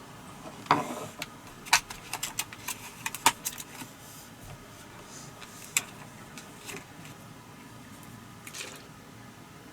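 Irregular sharp clicks and light clatter of small hard things, bunched in the first few seconds, with a couple more later on.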